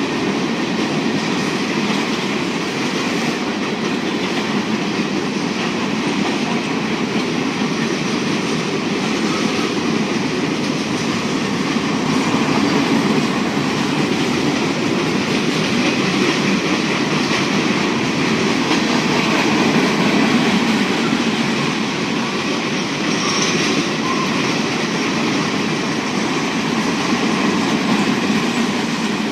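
Diesel-hauled train rolling past on the rails, a loud, steady noise of wheels on track with no letup.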